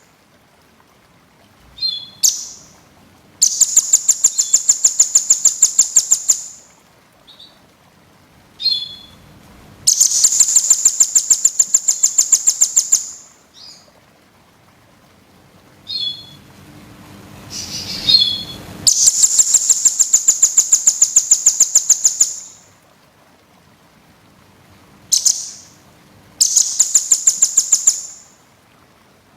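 Small songbird singing fast trills of rapidly repeated high notes, each trill lasting two to three seconds, four times, with short single chirps in the gaps between.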